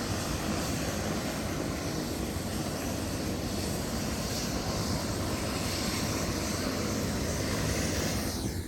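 Helicopter running steadily: a constant, even engine and rotor noise with no change in pitch.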